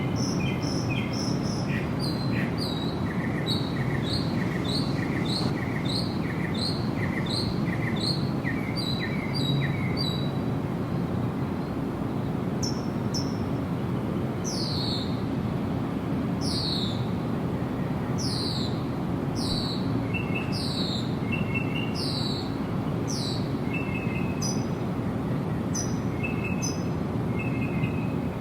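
Wild birds singing: a string of short repeated chirps, about two a second, for the first ten seconds, then a series of falling whistled notes about one every 0.7 seconds with softer short notes between them. A steady low rushing background noise runs underneath throughout.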